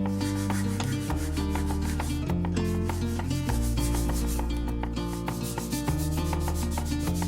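Sandpaper rubbed back and forth over plywood in quick, steady strokes, smoothing the surface, with background music underneath.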